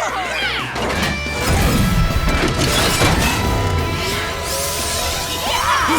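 Cartoon soundtrack: music layered with dense action sound effects, crash-like hits, sliding tones and a low rumble.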